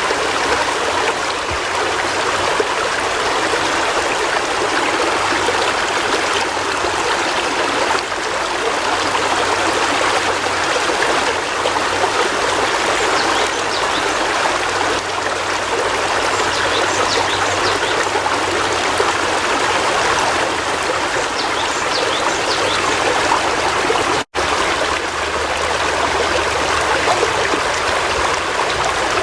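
River water flowing, a steady, even rushing with no let-up. Near the end the sound cuts out for a split second and comes straight back.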